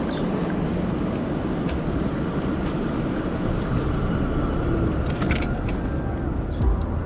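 Steady city street and traffic noise, a low rumble, with a few short clicks and rattles in the last couple of seconds.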